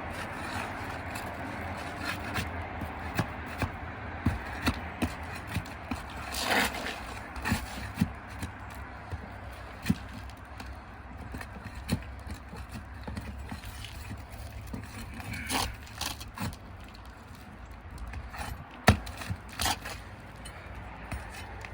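Scattered knocks, taps and short scrapes of hand tools on asphalt shingles as a roofer works nails loose from under the shingle tabs, over a steady low rumble. One sharp knock near the end is the loudest.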